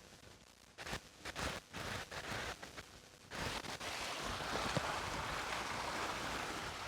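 Wind and sea-surf noise, patchy for the first three seconds and then steady.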